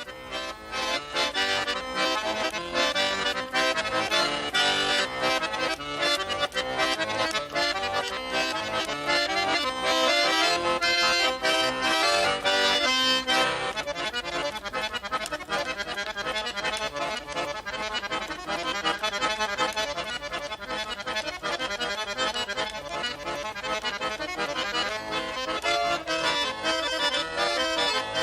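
Accordion playing an instrumental passage between sung verses of a song, with quick runs of notes throughout; it becomes a little softer about halfway through.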